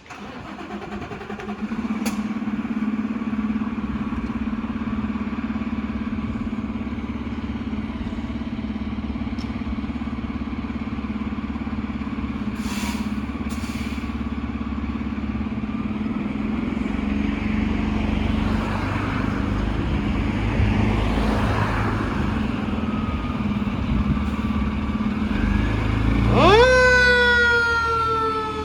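Pierce Enforcer tractor-drawn aerial ladder truck's diesel engine running loudly and steadily as the truck moves off. Near the end a siren winds up sharply, then begins a slow fall in pitch.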